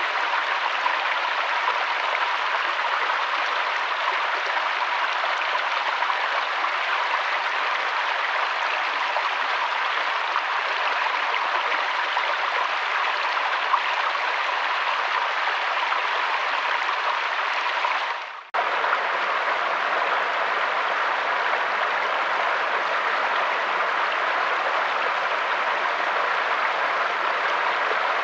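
Steady rushing water, an even noise with no pattern to it. It drops out for a moment about two-thirds of the way through, then carries on.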